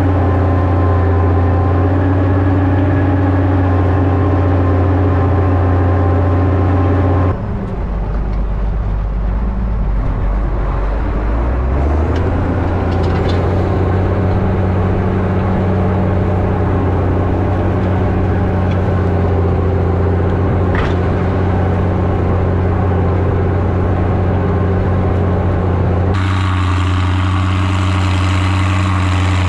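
Zetor ZTS 16145 tractor's diesel engine running steadily. Its note changes abruptly about seven seconds in, dipping in level and unsettled for a few seconds, then holds a new steady pitch from about twelve seconds. It shifts once more near the end.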